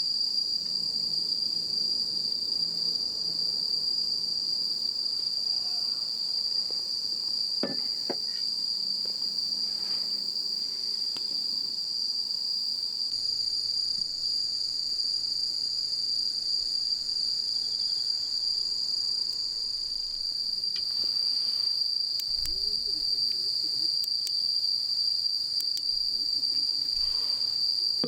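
Bell crickets (suzumushi) singing, one steady high-pitched trill that runs on without a break.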